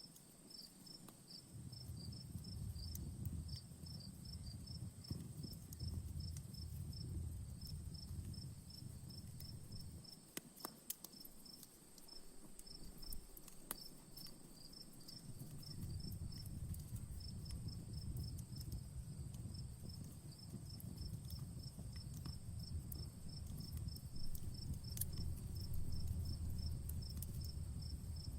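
Crickets chirping steadily in quick, regular chirps over a campfire's low rumble, with a few sharp crackles from the fire.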